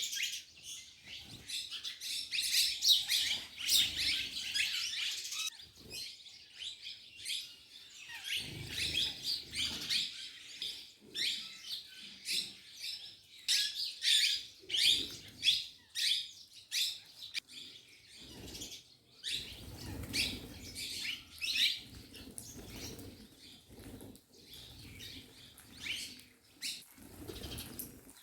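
A flock of rose-ringed parakeets calling: many short, shrill squawks overlapping one another, thinning out near the end.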